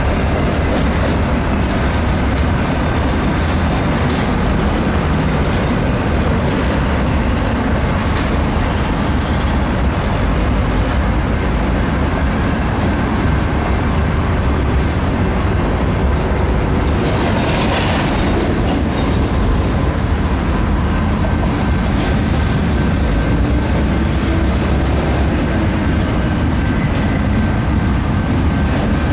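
A freight train's cars rolling steadily past close by: boxcars, tank cars and covered hoppers, their steel wheels rumbling on the rail with intermittent clicking over the joints. A brief harsher burst of noise comes about two-thirds of the way through, and a faint thin squeal sounds near the end.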